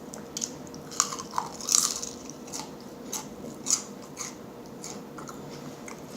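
Close-miked chewing and biting, with irregular sharp crisp crunches, the loudest about two seconds in, over a faint steady hum.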